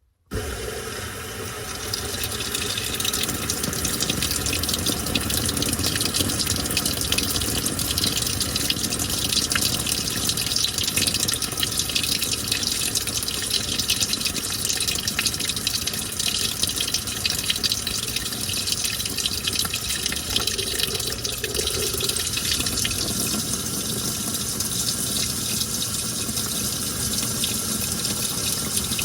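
Washing machine filling with water: water pours into the drum, starting abruptly right at the beginning and running steadily.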